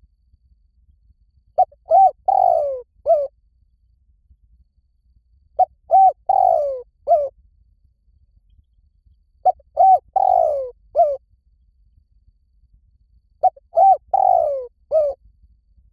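Spotted dove cooing. It repeats the same phrase four times, about every four seconds: quick short notes, a long falling coo, and a short closing note.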